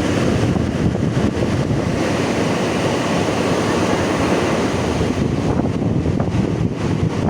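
Strong wind buffeting the microphone over the steady wash of surf on a beach, a continuous rumbling rush.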